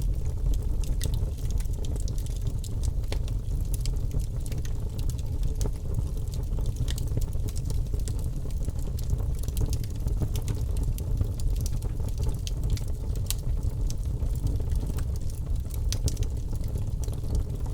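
Wood fire crackling, with frequent small pops and snaps over a steady low rumble.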